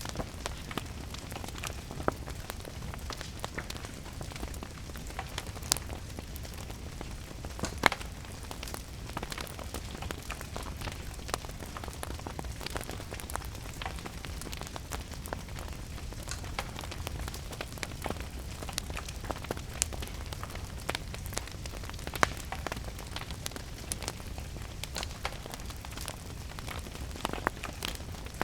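Wood fire crackling, with frequent sharp, irregular pops, over a steady hiss of rain and a low rumble.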